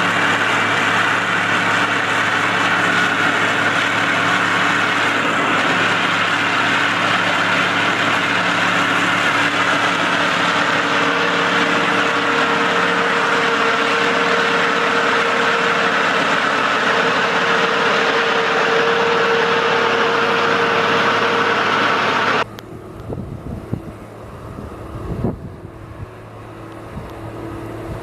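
A heavy machine's engine running steadily under a loud hiss. About 22 seconds in, it cuts off abruptly to a quieter engine hum with a few knocks.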